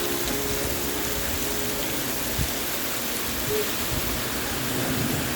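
Steady rain falling on a surface, an even hiss.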